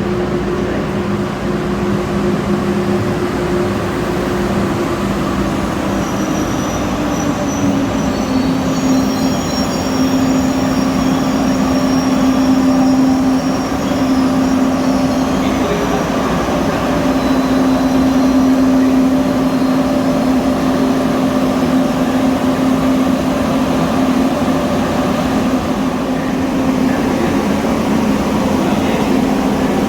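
High-speed electric train in the station: a steady electric drive hum that slides down in pitch a few seconds in, then holds steady. Faint high-pitched squealing runs for several seconds in the first half.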